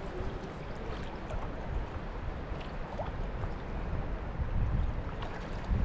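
Fast river water rushing steadily around a wading angler, with a couple of low bumps near the end.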